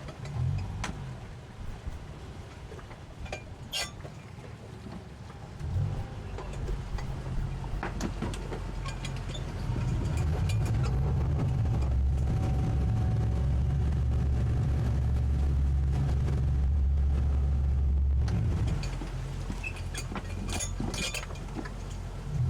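Twin 200 hp Suzuki outboard motors on a towboat running at low speed, throttled up and louder for several seconds about halfway through, then easing back off. A few sharp knocks come through over the engine sound.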